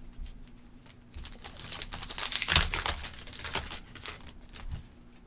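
A foil trading-card pack wrapper being torn open and crinkled, with quick crackling clicks, densest in the middle.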